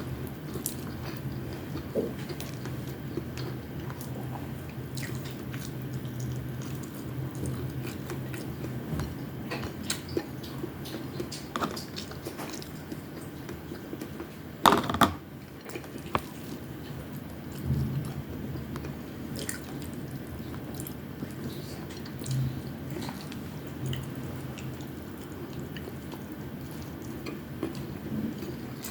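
Close-up chewing and wet mouth sounds of a person eating fried tamban fish and rice, with scattered small clicks and a louder double knock about halfway through, over a steady low hum.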